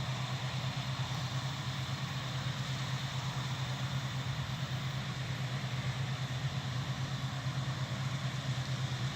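Diesel farm machinery working in a harvest field, a steady low engine drone with an even rushing noise over it.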